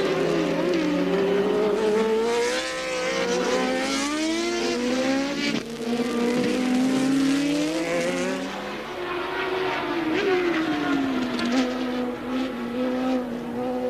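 Formula One racing cars of 1983 running at race speed, several engine notes overlapping, each rising and falling as the cars accelerate and shift gear; one note drops in pitch about ten seconds in, then holds steady.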